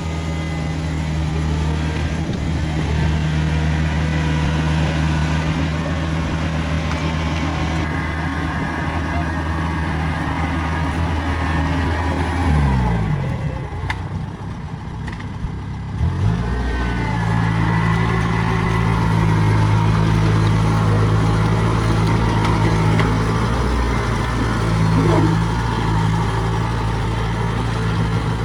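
Diesel engine of a Kubota rice combine harvester running steadily under way. About halfway through the revs drop away with a falling pitch; a few seconds later the engine picks up again and runs steady.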